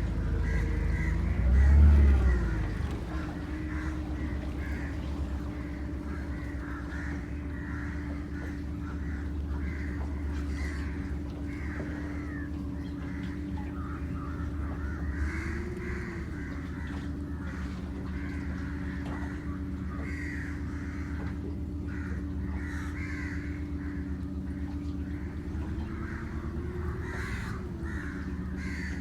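Many birds calling continuously in dense overlapping chatter, over a steady low hum.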